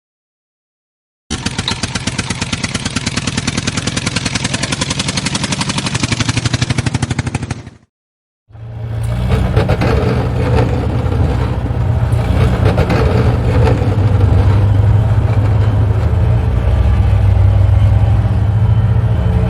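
Engine sound in two cut-together pieces: a fast, even chugging that stops abruptly about eight seconds in, then after a short gap a steadier, deeper engine running.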